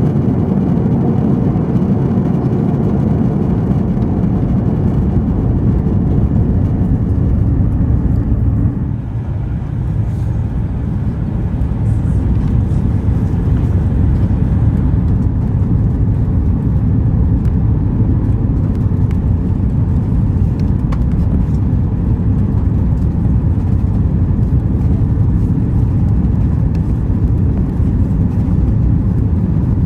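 Steady cabin rumble of an Airbus A340-600 airliner in flight on its approach, the drone of engines and airflow heard from inside the cabin. The sound dips briefly about nine seconds in, then carries on as before.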